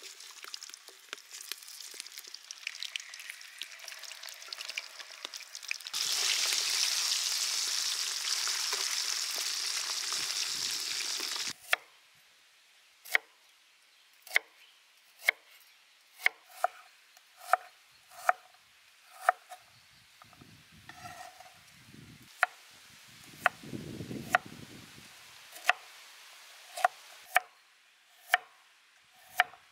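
Chicken feet deep-frying in a wok of hot oil: a sizzle that becomes loud and steady about six seconds in and stops suddenly before halfway. Then a chef's knife cutting shallot and ginger on a wooden cutting board: sharp knocks, about one a second.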